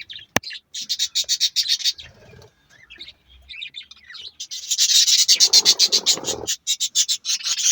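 Budgerigars chirping in quick, high runs of short chirps, a brief run near the start and a longer, louder one over the second half.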